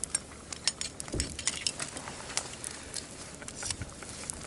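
Irregular light clicks and clinks of small metal camp cookware and utensils being handled.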